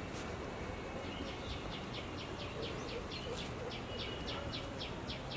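A bird calling in a fast run of short, high chirps, about five a second, starting about a second in, over a low steady background rumble.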